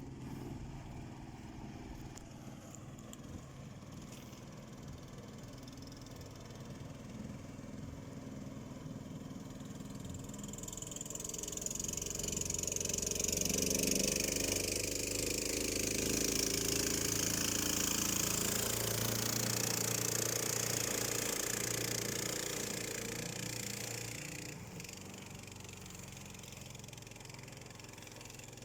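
Swamp-buggy engine running: it idles, builds up gradually to a much louder, higher-revving run for about ten seconds in the middle, then settles back down to idle.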